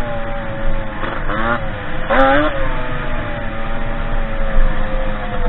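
Derbi 50cc two-stroke engine of a dirt bike under way, blipped up in revs twice in quick succession about a second and two seconds in, then running at steady revs.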